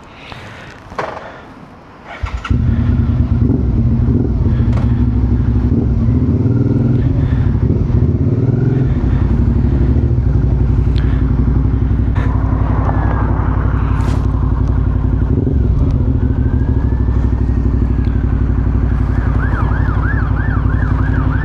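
Suzuki V-Strom 650XT's V-twin engine starting about two seconds in, then running steadily. From about halfway a police siren wails up and down over the engine, switching to a fast yelp near the end.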